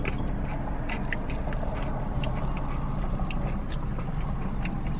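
Someone eating a spoonful of Blizzard ice cream with crushed peanuts and cone pieces: chewing with scattered small clicks and crunches, over a steady low rumble.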